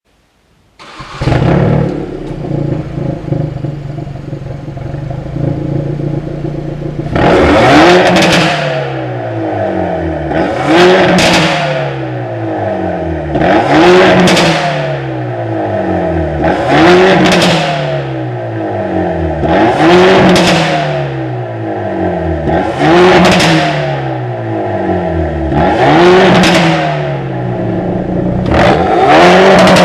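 Hyundai Veloster N's 2.0-litre turbo four-cylinder starts about a second in, idles steadily, then is blipped about eight times at roughly three-second intervals, the revs falling away after each one. Each rev ends in sharp popping and crackling on the overrun, sharpened by a mid-pipe exhaust tune.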